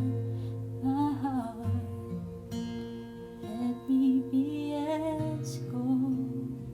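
Gentle acoustic guitar playing held, plucked chords, with a voice humming a wordless melody over it in short phrases.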